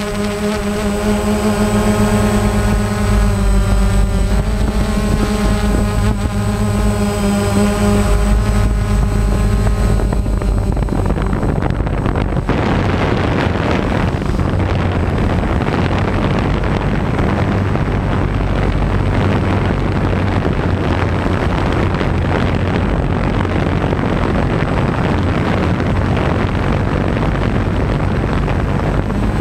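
An engine or motor running steadily with a low rumble for about the first ten seconds, then a steady, dense rushing noise without a clear pitch.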